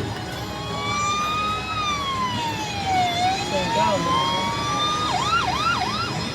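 Electronic police-siren sound effect played through the speaker of an MH Leisure Tempest police car kiddie ride. It is a slow wail that rises, falls and rises again, then switches to about four quick falling whoops near the end.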